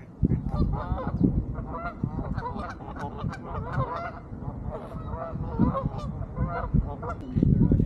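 A group of geese calling: many short honks overlapping and repeated in quick succession.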